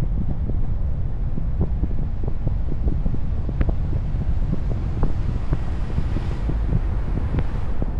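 Wind buffeting the microphone of a moving car, a steady low rumble with many small ticks and knocks through it.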